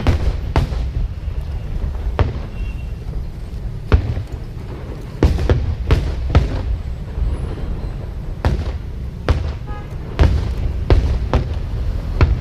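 Aerial fireworks bursting: more than a dozen sharp bangs at irregular intervals, some in quick runs, over a continuous low rumble of the display.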